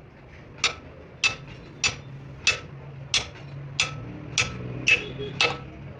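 Hammer striking steel, nine evenly spaced blows a little over half a second apart, each with a short metallic ring: wheel studs being knocked into a truck's rear axle hub.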